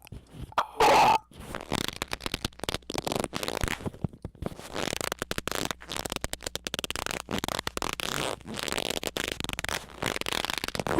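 Harsh, distorted noise sound effect chopped into rapid, irregular stuttering bursts, with one short louder burst about a second in.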